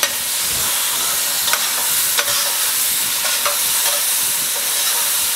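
Chopped wild asparagus, tomato, onion, pepper and garlic sizzling steadily as they fry in olive oil in a stainless steel saucepan, with a few taps and scrapes of the stirring utensil against the pan.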